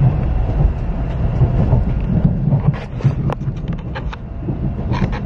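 Cabin noise of a Kodama Shinkansen bullet train under way: a steady low rumble, with a few short sharp clicks around the middle and near the end.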